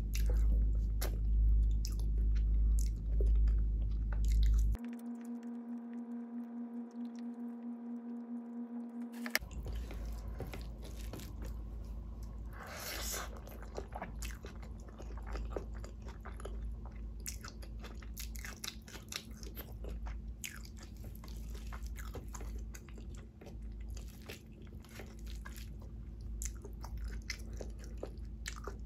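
Close-miked chewing and wet mouth clicks of someone eating vegetable biryani by hand, with soft squishes of fingers in the rice. About five seconds in, a steady low hum takes over for about four seconds before the chewing sounds return.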